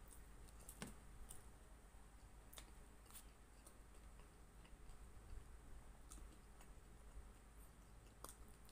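Near silence with faint, scattered clicks of a person eating rice and spring rolls by hand: mouth and chewing sounds at irregular intervals.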